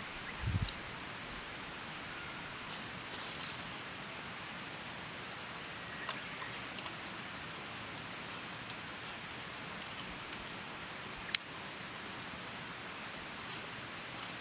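Small wood fire burning in a Firebox Nano camp stove: a steady hiss with a few scattered faint crackles and one sharp pop about 11 seconds in.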